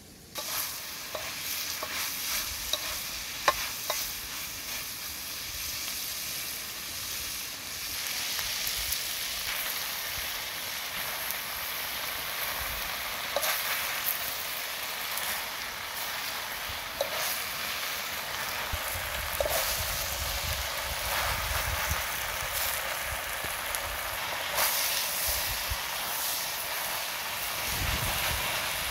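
Chopped gizzard sizzling as it fries in a metal wok over a wood fire, stirred with a wooden spatula that scrapes and knocks against the pan. The sizzle starts suddenly about half a second in and keeps up as a steady hiss, with scattered clicks from the stirring.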